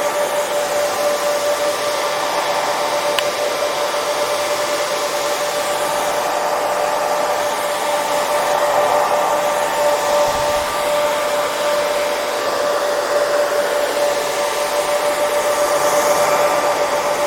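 Hair dryer running continuously: a steady rush of blown air with a constant motor whine on top.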